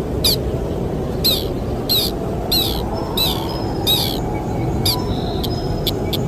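A bird known in Indonesian as the sintar repeats a short, sharp high call seven times, roughly once a second, over steady wind noise. Near the end, faster ticking and thin steady high tones come in.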